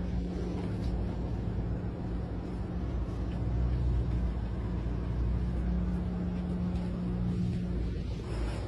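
Vehicle engine running, a steady low rumble with a constant hum.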